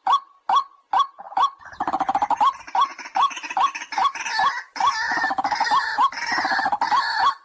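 White-breasted waterhen calling: a steady series of short croaking notes, about two to three a second, that thickens from about two seconds in into a denser, fuller stretch with lower grunting notes underneath.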